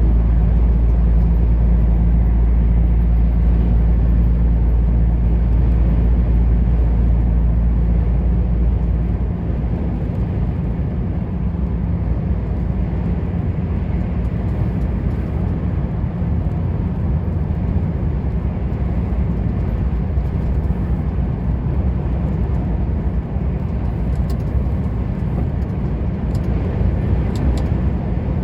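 Truck on the move: a steady engine drone with road noise. The deepest part of the hum eases off about nine seconds in.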